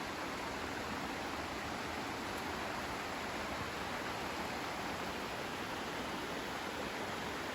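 Steady rushing water of a mountain stream, an even hiss with no change in level.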